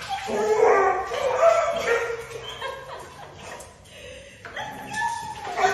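A dog making a drawn-out, wavering "woo woo" howl on cue, in two long calls whose pitch bends up and down. The second call starts about four and a half seconds in.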